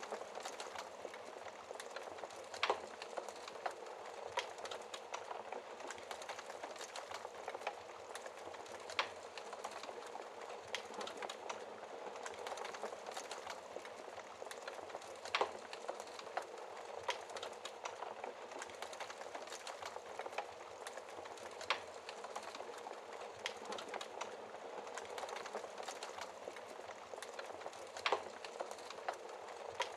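Wood fire crackling in a fireplace: a steady soft hiss full of small crackles, with an occasional louder sharp pop, about six of them spread through.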